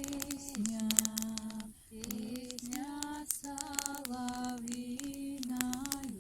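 A woman singing a slow melody in held notes that step from pitch to pitch, with short breaks between phrases, over frequent sharp clicks.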